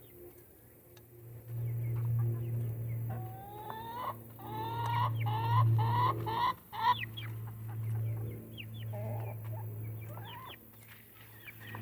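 Chickens clucking: a run of about six quick rising calls in the middle, with smaller chirps before and after, over a steady low hum.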